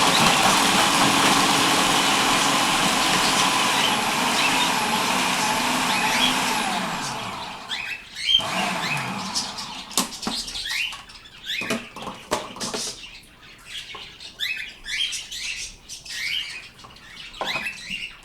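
Food processor chopping carrots, running loud and steady for about seven seconds, then switched off and spinning down. After it stops, pet birds chirp and squawk in short calls.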